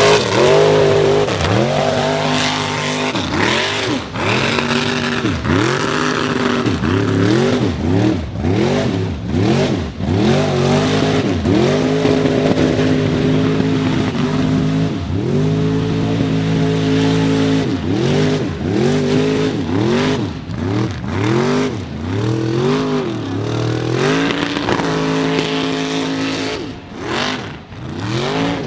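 A mud truck's engine revved hard again and again, its pitch rising and falling back roughly once a second, with no let-up.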